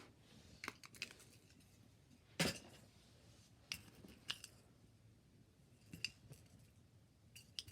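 Scattered small clicks and taps as gift items and their packaging are handled, with one sharper knock about two and a half seconds in.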